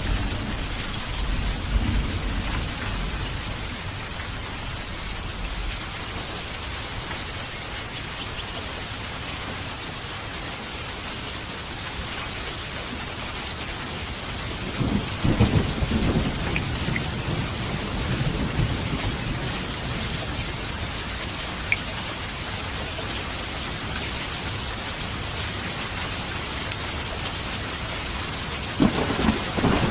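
Steady rain with rolling thunder. A low rumble fades out over the first few seconds, another peal of thunder rolls through about halfway in, and a third begins near the end.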